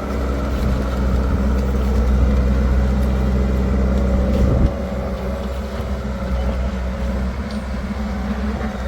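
A heavy diesel machine engine running steadily with a deep rumble. It drops suddenly in loudness a little past halfway and then runs on at the lower level.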